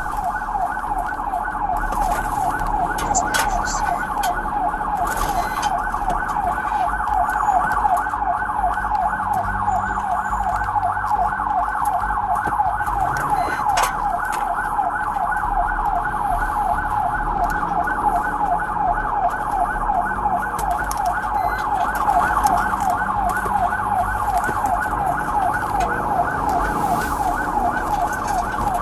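Police car siren on a fast yelp, its pitch sweeping up and down about four times a second without a break, over the pursuing car's engine and road noise.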